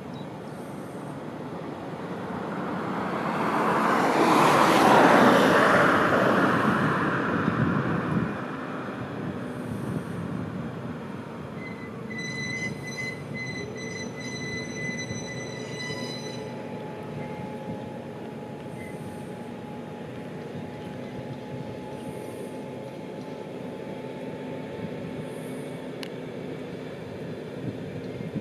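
Hitachi Azuma train coaches rolling slowly along the track, with a high thin wheel squeal between about twelve and sixteen seconds in. A broad rush of noise swells to a peak about five seconds in and fades away by about eight seconds.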